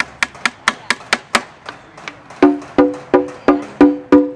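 Candombe drumming: a run of sharp clicks at about four a second, then from about two and a half seconds in, loud pitched drum strokes at about three a second.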